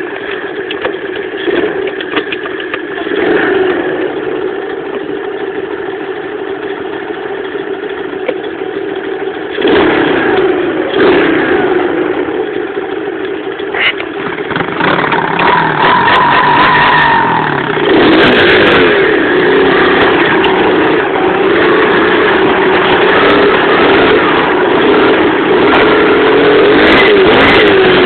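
Pit bike's Loncin single-cylinder four-stroke engine running and revving, its pitch rising and falling with the throttle. It grows louder about ten seconds in and is loudest through the second half.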